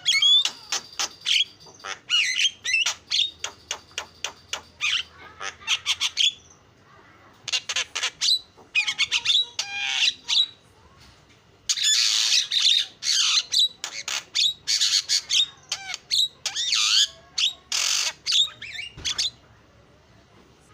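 Javan myna (jalak kebo) singing: rapid phrases of harsh squawking notes mixed with whistled glides, in three long bursts separated by short pauses, stopping about a second and a half before the end.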